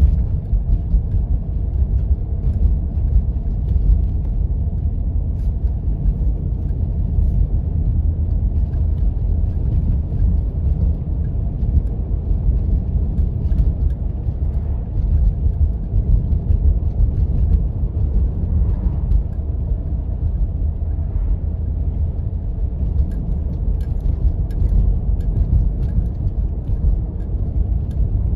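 Steady low rumble of a four-wheel-drive vehicle driving over snow-covered roads, with faint scattered clicks.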